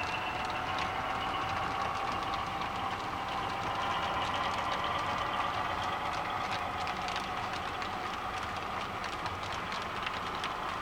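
HO scale model train running, with a steady whine that slowly rises in pitch and a rapid run of small clicks from wheels crossing rail joints.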